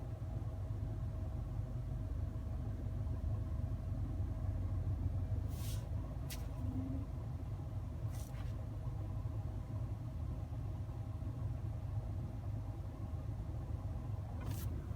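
2014 Nissan Sentra idling with the air-conditioning compressor just switched on, heard inside the cabin: a steady low rumble with a faint steady hum above it and a few faint clicks.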